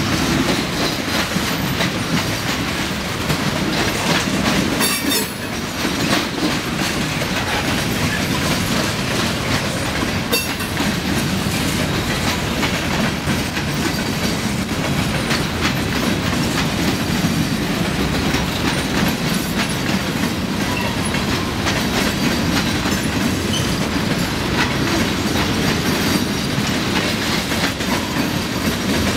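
Freight cars of a passing freight train rolling by: steel wheels on the rails make a steady rolling noise with repeated clicks as the wheels cross rail joints.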